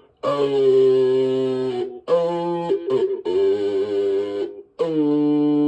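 A man's voice holding long steady vowel tones into the CB radio's microphone, four held notes of about a second or two each with short breaks: a modulation test while the wattmeter is read.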